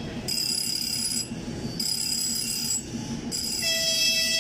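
Excursion train sounding a high tonal signal in three on-off stretches, joined near the end by a lower tone, over the steady rumble of the train running.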